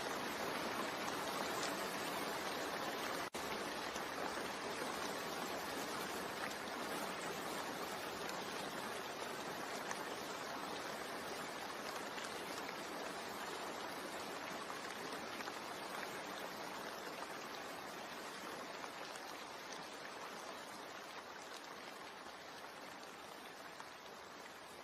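Steady rain falling, an even dense hiss. It drops out for a split second about three seconds in and grows gradually quieter over the second half.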